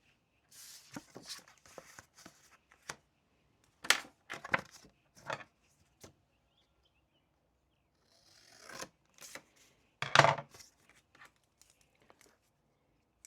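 Desk handling sounds while studying: paper rustling in two stretches, with several sharp knocks and clicks in between, the loudest about ten seconds in.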